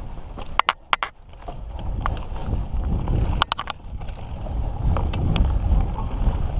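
Mountain bike riding on a dirt trail, with wind rushing over the microphone as a steady low rumble. Sharp clicks and clatters from the bike come in two short clusters, just under a second in and again about three and a half seconds in.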